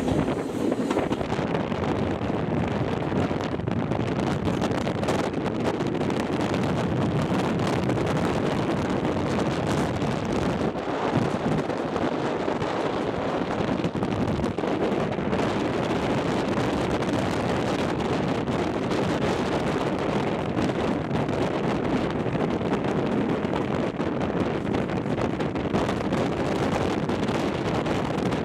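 Wind buffeting the microphone held out of a moving train's carriage window, over the steady running noise of the coaches on the track.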